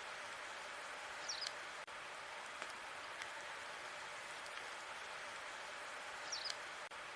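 Log fire crackling: a steady hiss with scattered sharp pops, and twice a brief high squeak, about five seconds apart.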